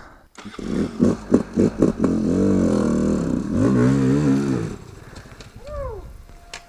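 Two-stroke dirt bike engine, a KTM 250 XC-W, blipped in short bursts, then revved with a wavering pitch under load for a couple of seconds. It drops to a much quieter idle near the end.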